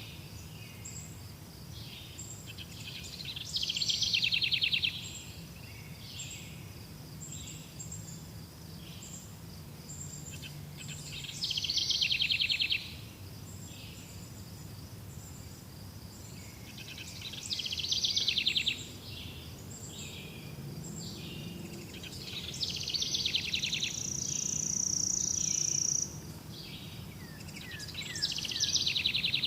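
Forest birds singing: one bird repeats a rapid trilled phrase about every five to six seconds, with short high chirps about once a second between phrases and a held high whistle near the end, over a low steady background rumble.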